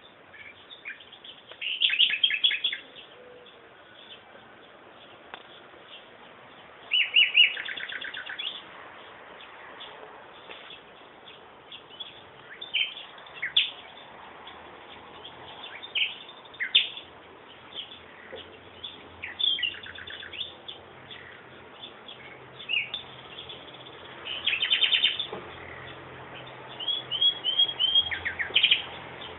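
Songbirds singing: bursts of fast, rapid-fire trills about two, seven, twenty-five and twenty-eight seconds in, with single sharp downward-sliding notes in between. A faint low hum comes in during the second half.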